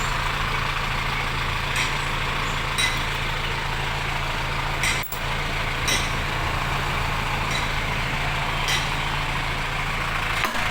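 Vehicle engine idling steadily, with a few light clicks and knocks scattered through it.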